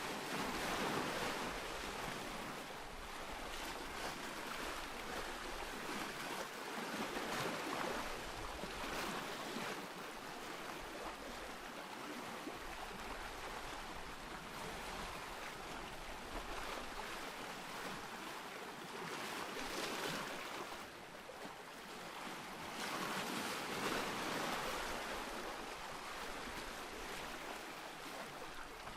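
Ocean surf: waves washing in and breaking, the rush swelling and easing every few seconds.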